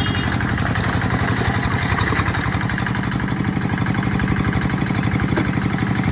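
Quick G1000 hand tractor's diesel engine running steadily, with an even, rapid pulse.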